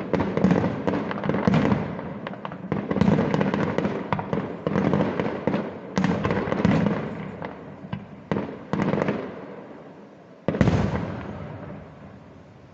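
Fireworks display: a rapid volley of overlapping bangs and crackling shell bursts that thins out. One last loud bang comes about ten and a half seconds in, and its rumble dies away.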